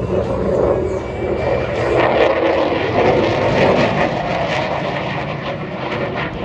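F-35B Lightning II's F135 jet engine passing overhead: loud jet noise with a rapid crackle, fading away near the end.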